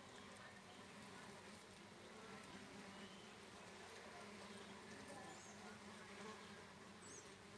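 Faint, steady buzzing of insects.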